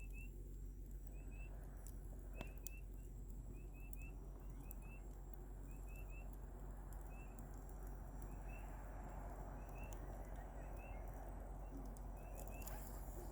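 A campfire burning with a soft hiss that grows fuller in the second half, and scattered sharp crackles and pops. Short high chirps, mostly in pairs, repeat every second or so.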